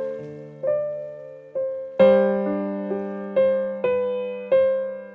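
Slow, gentle solo piano music, single notes struck about twice a second over held lower notes, with a fuller chord about two seconds in.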